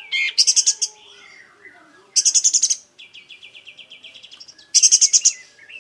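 Kapas tembak songbird singing: three loud bursts of rapid high notes, with a run of quick, evenly spaced chattering notes between the second and third.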